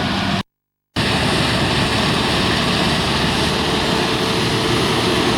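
Farm machinery engine running steadily, with the sound cutting out completely for about half a second near the start.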